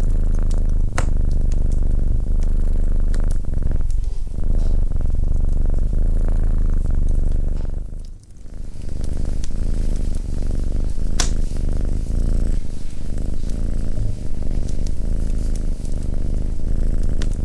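Domestic cat purring steadily and loudly close to the microphone, with a short break about eight seconds in. A few sharp clicks sound over it, the clearest about eleven seconds in.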